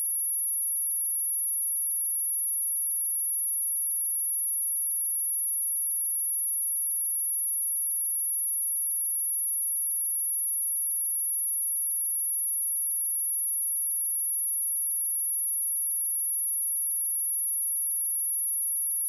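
A steady, high-pitched pure sine tone at 10507 Hz, one unchanging pitch held throughout: a speaker test tone, also played to shake water and dust out of a speaker.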